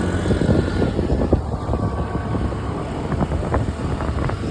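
Steady road-vehicle rumble with wind buffeting the microphone and scattered short knocks.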